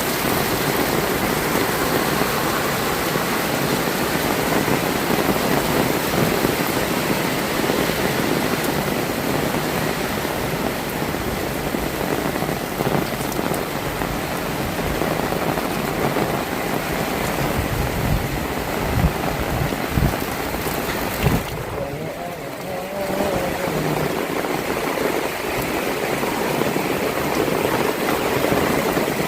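Heavy rain falling steadily in a dense, even hiss, with a few low thuds about two-thirds of the way through and a brief lull about three-quarters through.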